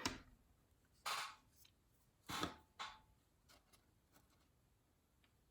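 Faint handling noises from small hand tools: four short rustles in the first three seconds, then a few light clicks.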